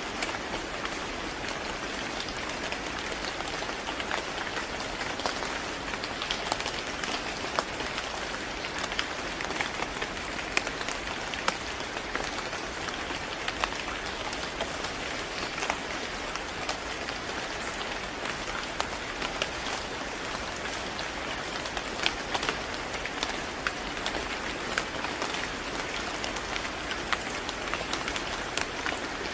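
Steady rain falling on a surface, an even hiss with many scattered drops tapping throughout.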